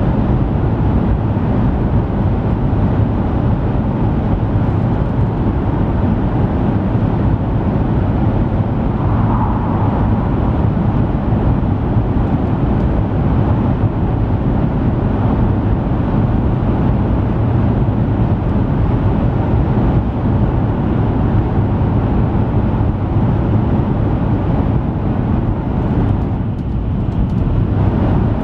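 Steady running noise of an N700 series Shinkansen train travelling at speed, heard inside the passenger cabin: a constant deep rumble under a rush of air and track noise. The higher part of the noise briefly drops away about 26 seconds in.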